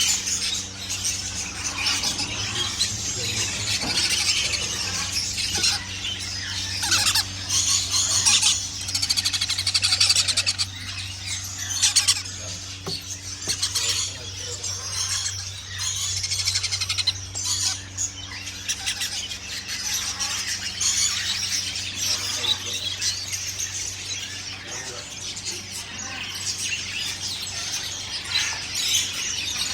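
Many caged birds chirping and twittering at once in a dense, unbroken chorus, with a steady low hum underneath.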